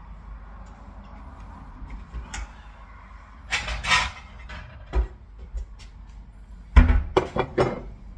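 Kitchen clatter: a run of sharp knocks and bangs from things being handled, with the loudest cluster, including a heavy thump, near the end, over a low steady hum.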